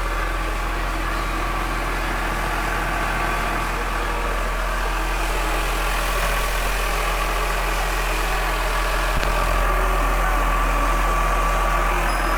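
Massey Ferguson 6490 tractor's six-cylinder diesel engine idling steadily, a little louder in the last few seconds.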